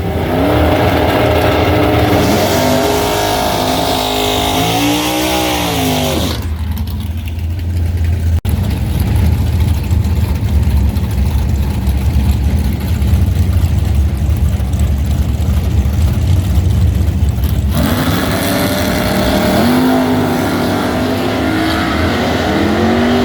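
Drag car engines revving, the pitch climbing and dropping, for the first few seconds. Then a deep, steady engine rumble for about eleven seconds, and rising and falling revs again near the end.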